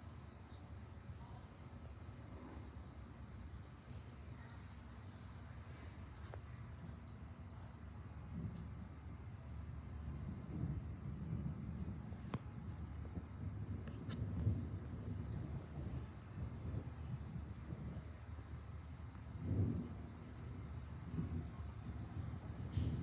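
Crickets chirping in a steady, high continuous trill, over a low rumbling that swells a few times, loudest about two-thirds of the way in.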